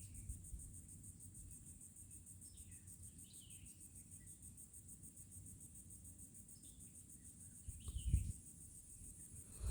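Insects trilling steadily in a high, fast pulse in the woods, with a bird giving a few short falling chirps. A brief low thump comes about eight seconds in.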